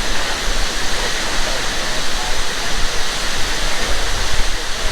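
Large waterfall plunging into its pool: a loud, steady rush of falling water with a deep rumble underneath.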